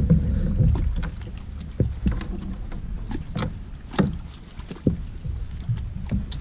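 Handling sounds in a fishing kayak: scattered knocks and clicks against the hull over a low rumble of movement and wind on the microphone.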